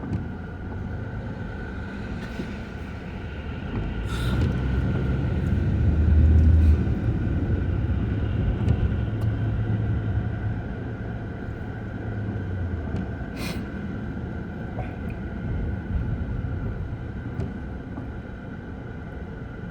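Road traffic on a wet freeway with a heavy vehicle's low rumble that swells about four seconds in, is loudest around six to seven seconds, and dies away by about thirteen seconds, over a steady traffic background.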